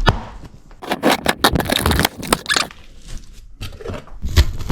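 Irregular scraping and clicking handling noises, followed by a few low thumps near the end.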